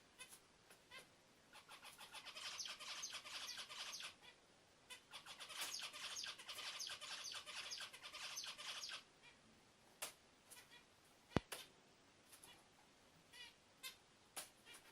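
A songbird, the kind kept as a cage bird in Turkey under the name 'Hint bülbülü', singing fast chattering phrases in two long runs, then a few single chirps. A sharp click comes about two thirds of the way in.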